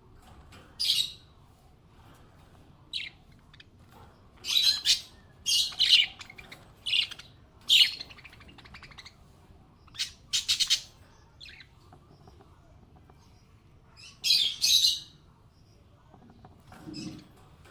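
Small pet parrots chirping: short, sharp, high calls in scattered clusters, some in quick pairs, with quiet gaps of a few seconds between them.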